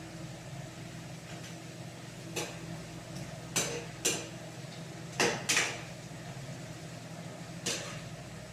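Kitchen clatter of dishes, pots and utensils: about six sharp, irregular knocks and clinks, over a steady low hum.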